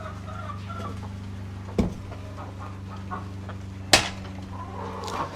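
Chickens clucking, over a steady low hum. There is a sharp knock nearly two seconds in and a louder one about four seconds in.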